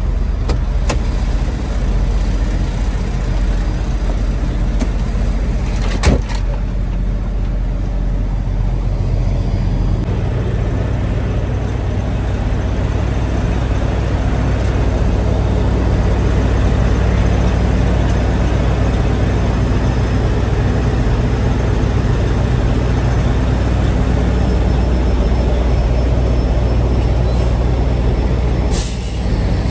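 Truck engine running steadily, heard as a low drone with road noise while driving, with a single click about six seconds in and a short hiss near the end.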